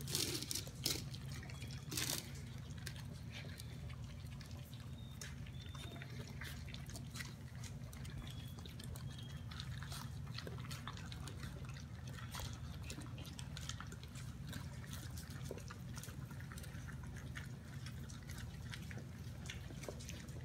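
Basset Hound puppies lapping and smacking at wet mush food, a continual patter of small wet clicks, a few louder ones near the start, over a steady low hum.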